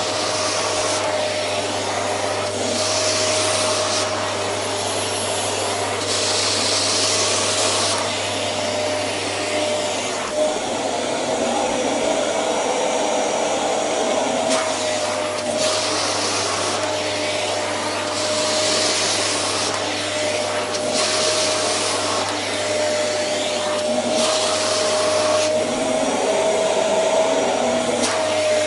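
Household vacuum cleaner running continuously with a steady motor whine, its airflow hiss swelling and fading every few seconds.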